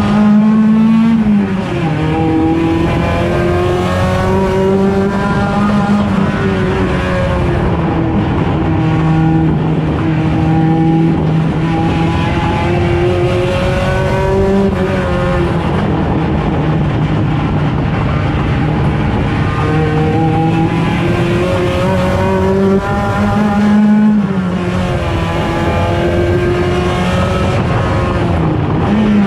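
Engine of a 1.6-litre touring race car running hard under racing conditions, its note climbing and dropping several times as it accelerates and slows.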